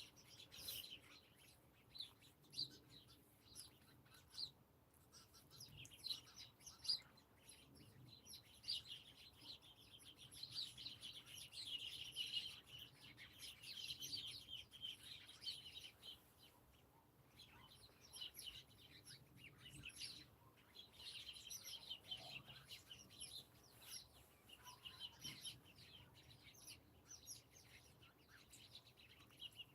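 Small songbirds chirping faintly: many short, high notes in quick runs that thicken and thin over time.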